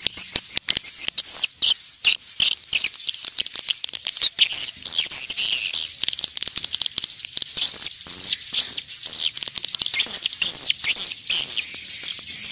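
Swiftlets twittering: a dense, continuous chorus of high-pitched chirps, trills and clicks, the kind of calling sound played to lure swiftlets to a nesting house.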